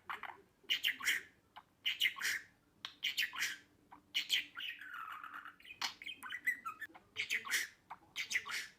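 Budgerigar chirping and chattering in short, bright, repeated calls, with a softer warbling stretch about halfway through.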